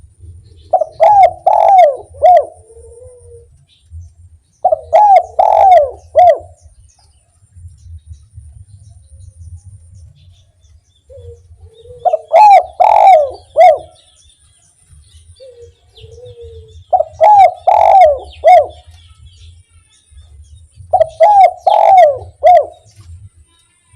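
Spotted dove (derkuku) singing its 'kuk 1' coo song: five phrases, each a quick run of three or four coos.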